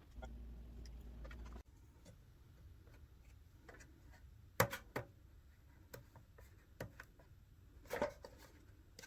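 Scattered light clicks and knocks from handling and fitting parts while a snowblower is reassembled. A low hum sounds for the first second and a half, then cuts off abruptly.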